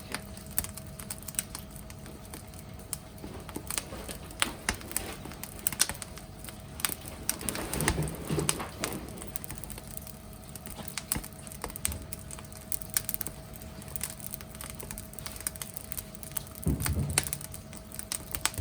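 Wood fire crackling: irregular sharp pops and clicks at an uneven pace, with a faint steady hum beneath and two short low swells, about 8 and 17 seconds in.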